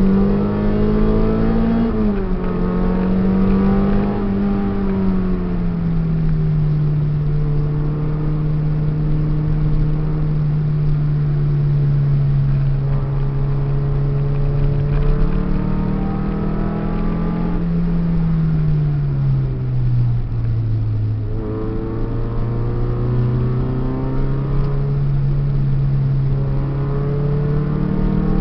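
Peugeot 306 engine heard from inside the cabin while driven on a circuit: the revs climb, drop sharply about two seconds in, hold steady for a long stretch, rise and fall again around the middle, and climb once more near the end, over steady road noise.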